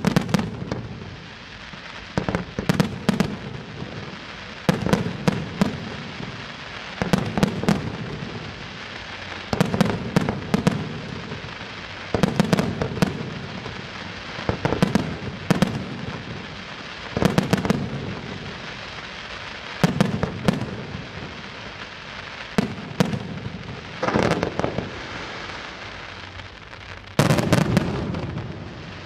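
Aerial firework display: shells bursting in quick clusters of sharp bangs about every two and a half seconds, with a continuous hiss and crackle between the volleys. A heavier barrage comes near the end.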